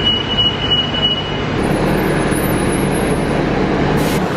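Steady running noise and low hum of a moving vehicle, with a thin high whine over the first second and a half.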